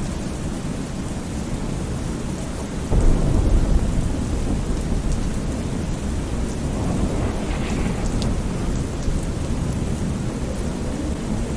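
Thunderstorm ambience: steady rain with low rolling thunder. A louder rumble of thunder comes in about three seconds in and slowly dies back into the rain.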